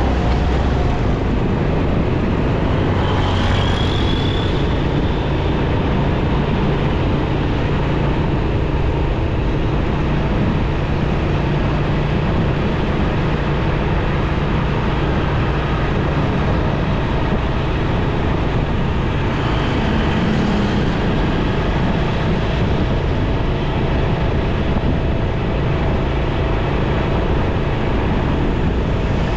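Motorcycle riding in city traffic: a steady engine hum under continuous wind and road noise, with a brief high rising tone about three seconds in.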